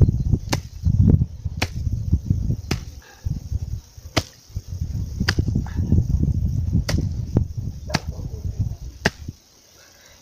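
A hand chopping tool strikes tree roots in the soil about once a second, around nine sharp chops, with low rumbling noise between them. The chopping stops about a second before the end.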